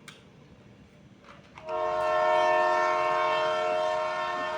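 Train horn sounding one long, steady chord of several notes, starting about a second and a half in.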